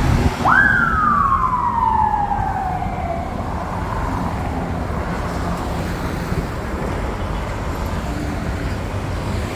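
A single siren-like tone shoots up sharply about half a second in, then glides slowly down over nearly three seconds, over a steady background of street noise.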